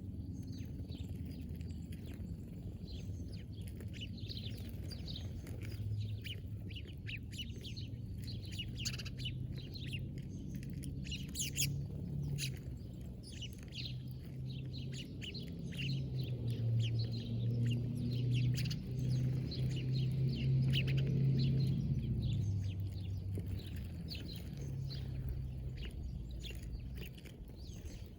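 Small birds chirping and twittering, many short quick notes, over a low steady hum that swells for several seconds past the middle and then fades back.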